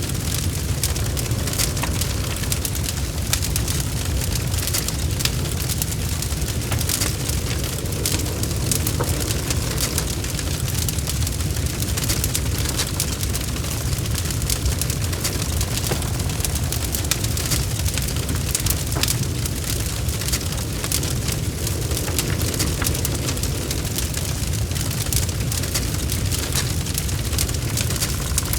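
Log fire in a fireplace crackling, with frequent sharp pops and snaps over a steady low rumble of the flames.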